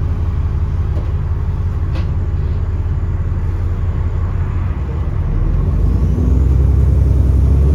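Alexander Dennis Enviro400 double-decker bus engine running with a steady low rumble, with a brief click about two seconds in. About six seconds in the engine picks up and gets louder, with a faint rising whine.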